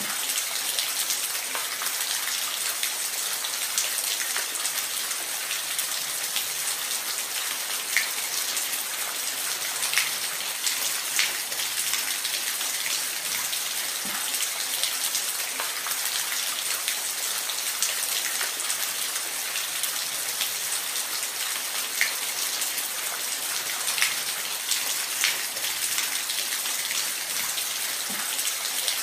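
Waterfall: a steady hiss of falling water, with scattered sharp splashes of droplets every second or two.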